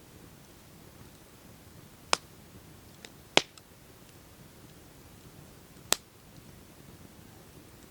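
Campfire crackling: four sharp pops from the burning wood, the loudest about three and a half seconds in, over a faint steady low hiss from the fire.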